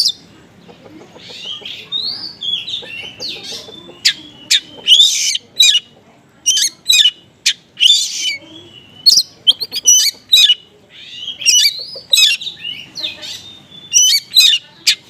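Oriental magpie-robin (kacer) singing in an excited, 'konslet' state: a fast run of sharp chirps, sweeps and harsh squawks, several notes a second, with phrases copied from small birds.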